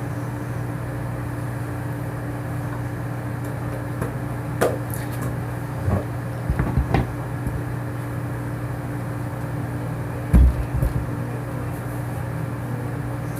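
A few scattered knocks and taps of objects being handled on a table, the loudest a low thump about ten seconds in, over a steady low hum.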